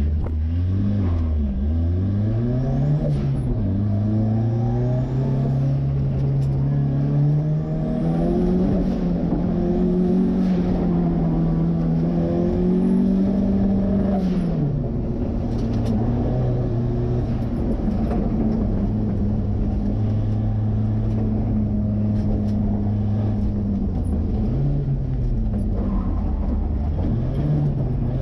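Turbocharged Ford 2.3-litre four-cylinder in a 1963 Volvo Amazon running hard on an autocross course, its revs climbing and dropping several times, with long stretches held at steady revs between.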